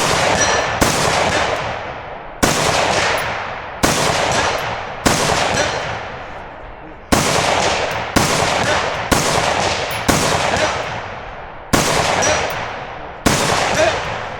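Single gunshots fired at a deliberate pace, about eleven of them one to two seconds apart, each sharp crack trailing off in a long echoing decay.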